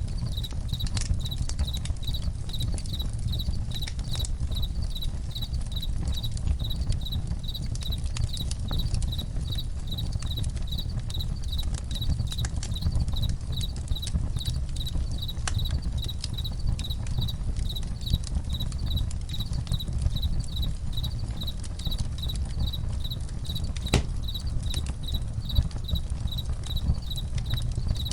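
Campfire crackling with scattered sharp pops, one stronger pop near the end, over a steady low rumble, while crickets chirp in a regular pulsing rhythm of about two chirps a second.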